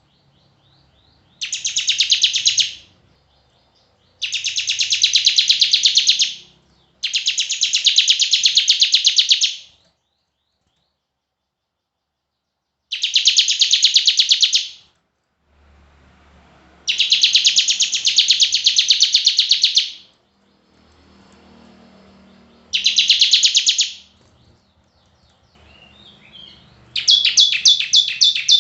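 A songbird singing in repeated bursts of rapid, high-pitched trilled notes, each burst one to three seconds long with short pauses between, seven in all, the last beginning near the end.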